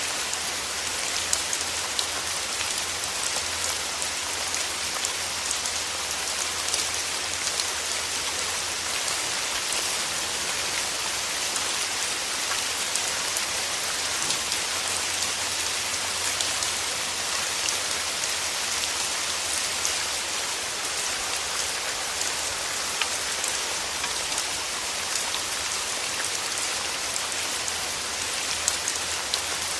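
Steady rain falling: a dense, even hiss of rainfall with scattered sharper drop hits ticking through it.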